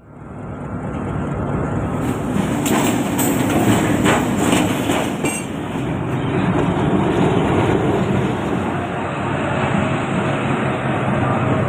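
Diesel-hauled train passing close by: a steady engine and wheel rumble that builds over the first second, with a run of sharp wheel clacks over rail joints between about two and five seconds in.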